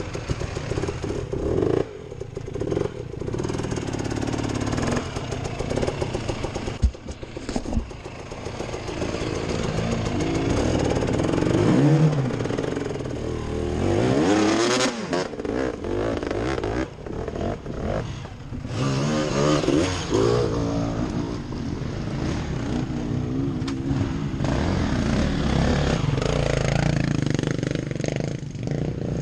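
Off-road dirt bike engine revving up and down under varying throttle, heard on board, with clattering knocks from the bike over rough ground.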